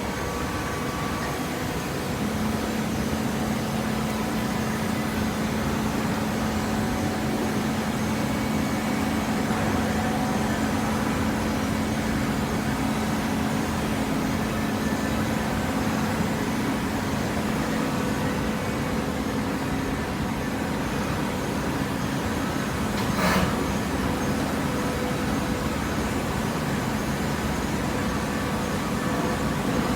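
Hydraulic waste paper baling press running: steady machine noise with a hum that sets in about two seconds in, and a single sharp clank a little over two-thirds of the way through.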